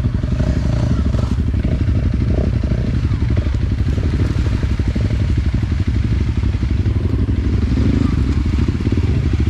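Enduro dirt bike engine running at steady low revs, its rapid firing pulses even throughout.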